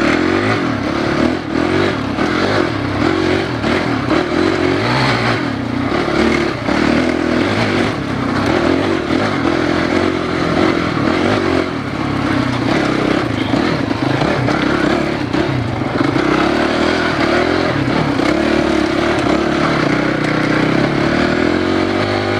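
Enduro dirt bike engine running under load over a technical trail, revving up and down continuously, with scattered knocks and clatter from the bike over rough ground.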